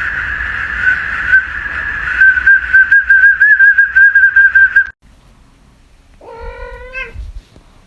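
A loud, high, whistle-like tone that breaks into a fast warble, cutting off suddenly about five seconds in. After a short quiet gap, a cat meows once.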